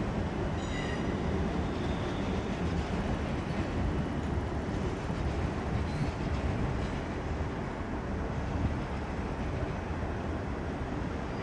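A passenger train moving through the station, its wheels and running gear rumbling steadily on the track. A brief high-pitched whine is heard about a second in.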